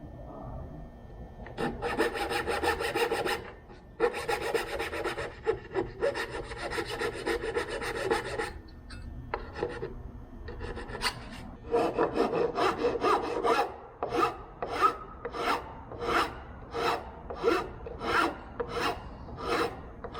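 A hand tool rasping back and forth on a wooden stop block: two longer stretches of strokes, then regular strokes about two a second through the second half.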